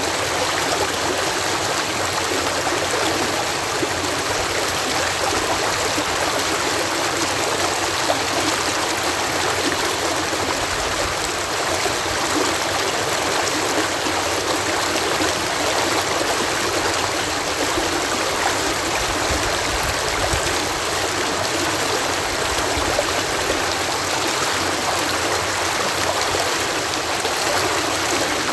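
Water pouring in a steady cascade at a canal lock, a continuous even rush of falling and churning water.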